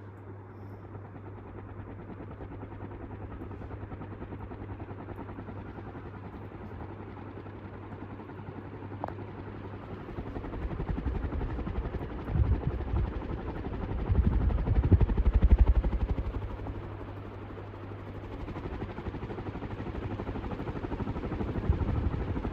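48-inch Westinghouse Industrial ceiling fan running on speed 3, its steady motor hum and blade whoosh slowly building as it picks up speed. From about ten seconds in, gusts of low rumble come and go as the fan's airflow buffets the microphone.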